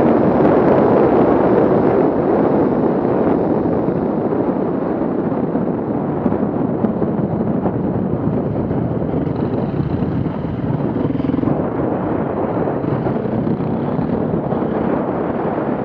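Off-road vehicle engine running hard, loudest in the first few seconds and then holding steadier.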